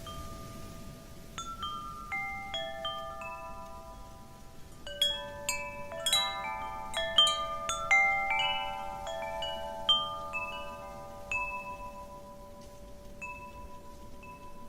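Metal wind chimes ringing in the wind: scattered strikes at first, then a flurry of overlapping chimes in the middle as a gust swings them, thinning again to a few long-ringing tones, over a soft rush of wind.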